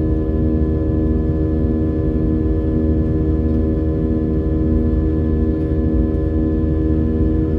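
Cabin drone of an Airbus A320 climbing out, its IAE V2500 turbofan engines at climb power: a steady low rumble under a stack of held humming tones, one of them beating slowly on and off.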